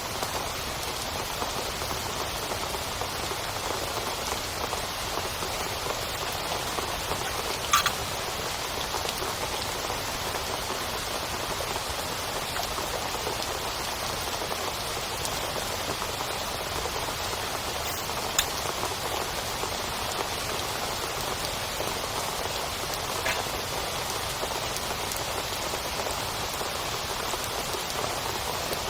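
Heavy rain falling steadily on a tent, an even hiss of drops. A few louder single drops or drips strike sharply, about 8, 18 and 23 seconds in.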